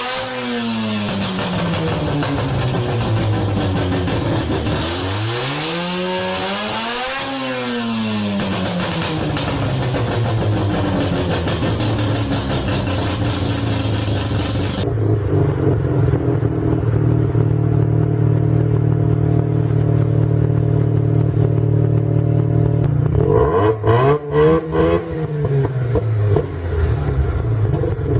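Mazda 12A rotary engine revving, its pitch falling, then rising and falling once more. After a cut, a rotary engine idles steadily, with one quick rev about three-quarters of the way through.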